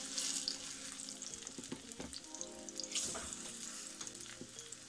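Plantain slices frying in hot olive oil in a shallow nonstick pan: a steady sizzle broken by small, sharp pops of spitting oil.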